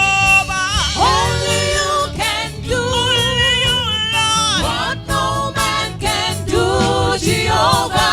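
Gospel worship singing, a voice holding and sliding between notes in phrases about a second long, over steady instrumental accompaniment.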